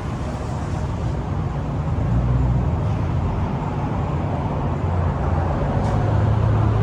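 Steady low rumble of car engines running, with traffic noise, growing slightly louder over the last couple of seconds.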